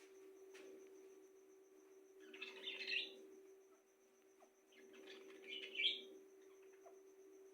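A pet bird chirping softly in two short bursts, the first about two and a half seconds in and the second about five and a half seconds in, over a faint steady hum.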